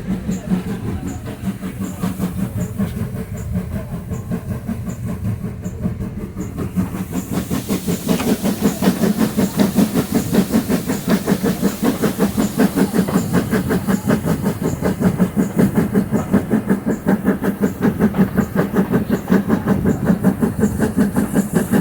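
Great Western Railway steam tank locomotive working hard up a steep gradient, heard from the train: a fast, even rhythm of exhaust beats with wheel clatter on the rails. It grows louder about eight seconds in.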